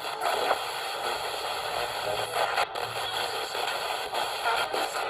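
Radio Shack ghost box sweeping the FM band: a steady hiss of static broken by brief choppy fragments of stations as it skips.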